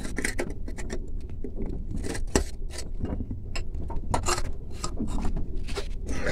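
Scattered scrapes, rubs and light clicks of hands refitting the coolant filler cap on a Beta Marine diesel engine, over a steady low rumble.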